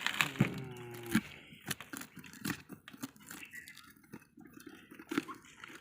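A stingless bee hive being prised open: a run of irregular crunching, crackling and scraping clicks as the sealed parts are broken apart.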